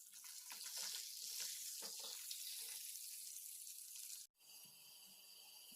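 Mustard-paste-coated fish frying in hot oil in a kadai: a soft, steady sizzle with light crackles. It cuts out briefly about four seconds in and resumes quieter.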